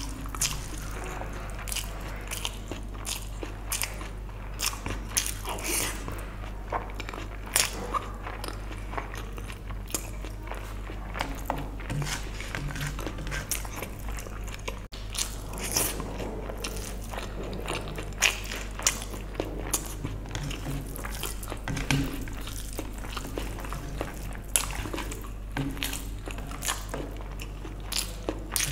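Close-miked eating sounds of a mouthful of vegetable biryani being chewed: irregular wet smacks and sharp clicks, with a steady low hum underneath.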